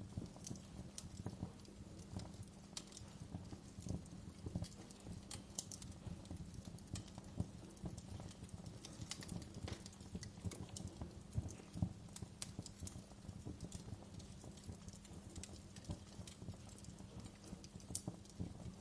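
Wood fire crackling in a fireplace: irregular small pops and snaps, several a second, over a low steady rumble of the burning fire.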